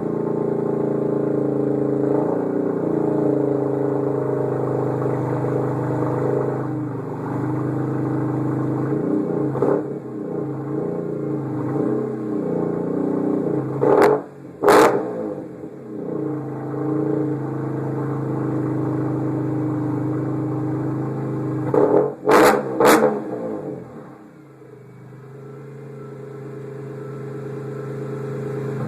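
BMW E46 M3's S54 straight-six with a straight-piped exhaust idling after a cold start, blipped twice in quick succession about halfway through and twice more about three-quarters through, each a short sharp rev. Near the end the sound drops much quieter.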